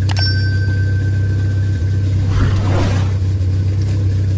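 Turbo Chevette's engine idling steadily, heard from inside the cabin. A click comes right at the start, followed by a thin high tone lasting about two seconds, and there is a brief rustle about two and a half seconds in.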